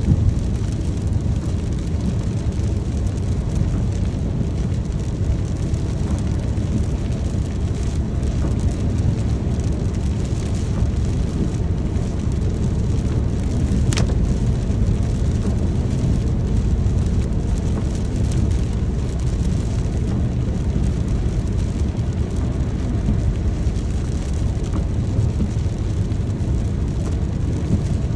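Steady rain with a deep low rumble under it, and one sharp click about halfway through.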